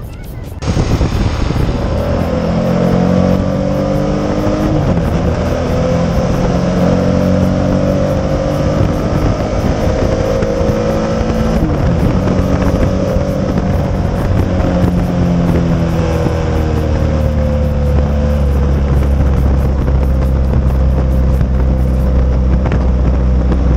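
Yamaha XS750's air-cooled three-cylinder engine on the move, pulling up through the revs and dropping back again and again as the bike accelerates and shifts, over wind and road rumble. Near the end it runs at a steadier speed with a heavy low rumble.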